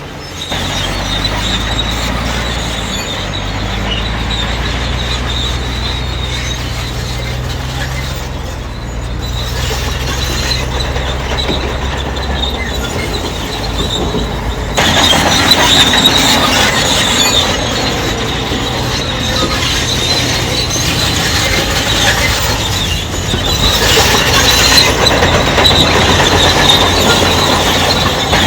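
Crawler bulldozer working: the diesel engine runs steadily under a continuous high squeal from the steel tracks. The squeal and overall noise get louder about halfway through.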